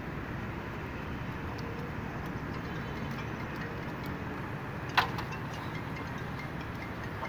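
Steady low background rumble, with one sharp knock about five seconds in.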